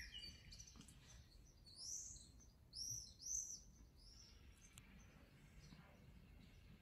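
Faint bird chirps: a few short, high, arching notes in two bunches, about two and three seconds in.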